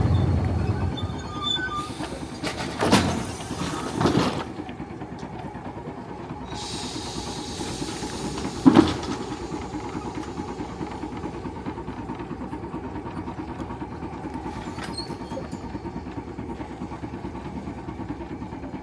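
Narrow-gauge tram-train running on rails. A loud rumble fades over the first second or so, a few sharp clacks follow, and a steady low rumble runs on after them.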